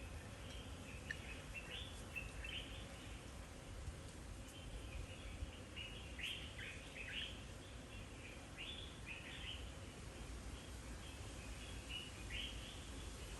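Birds chirping: short, high chirps come in clusters every second or so, over a steady low rumble of background noise.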